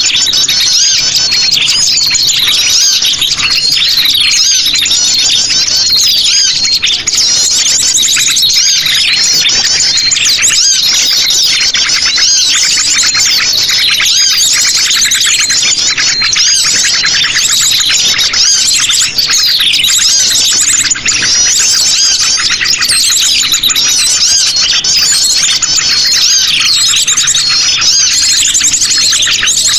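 Busy, continuous high-pitched chirping and twittering of sogon birds (the Indonesian bird-keepers' name), the calls tumbling over one another without pause.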